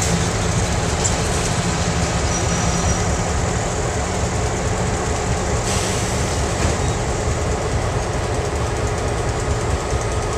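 Freight train diesel locomotive working, a steady low engine drone under a continuous rumble.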